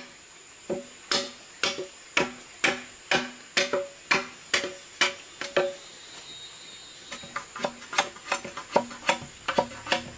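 Repeated strikes of a blade on wood, about two a second, each with a short hollow knock. The strikes stop briefly about six seconds in, then resume faster and lighter.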